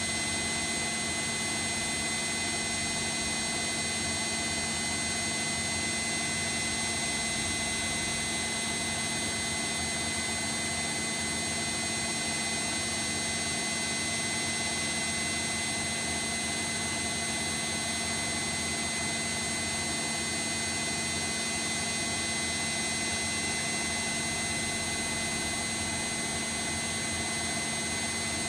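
Bosch WAE24162 front-loading washing machine spinning steadily at speed, a constant motor and drum whine with no pauses or changes in pitch.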